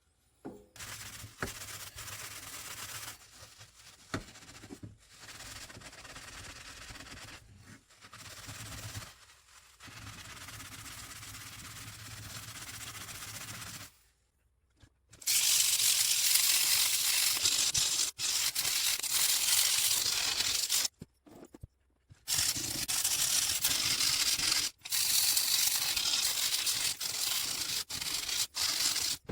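Abrasive scraping and rubbing on the steel blades of hedge shears, done by hand while the rusty blades are cleaned and sharpened. Fairly quiet at first, much louder and harsher from about halfway, with several abrupt breaks.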